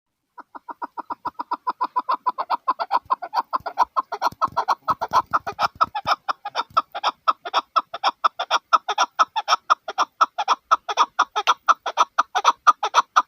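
Chukar partridge calling: a long, even run of short clucking 'chuk' notes, about four or five a second, growing a little louder over the first few seconds and continuing without a break until it stops at the end.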